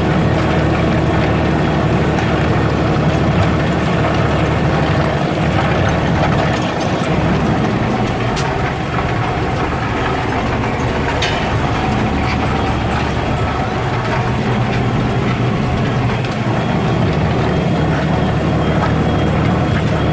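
Deutz-Fahr Agrotron TTV 160 tractor's six-cylinder diesel engine running steadily while pulling a plough, easing slightly about a third of the way in.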